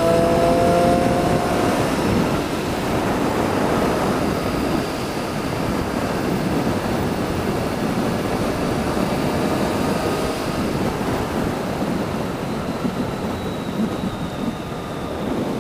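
Motorcycle being ridden on the road: steady rush of wind and road noise with the engine under it. In the first two seconds the engine note rises as the bike accelerates.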